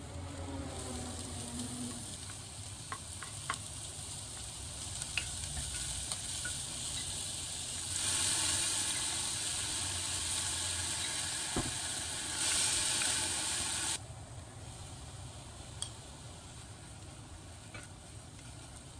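Onion and garlic frying in a ceramic saucepan, sizzling steadily while a wooden spoon stirs with a few light taps against the pan. About eight seconds in the sizzle grows much louder, surging again around twelve seconds as BBQ sauce hits the hot pan, then drops back about fourteen seconds in.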